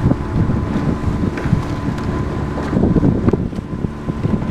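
Wind buffeting the microphone during a rowing race, a gusty low rumble with a faint steady high tone underneath.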